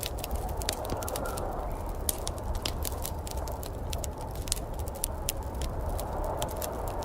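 Wood fire crackling in a fireplace, with many sharp, irregular pops and snaps over a steady low rumble.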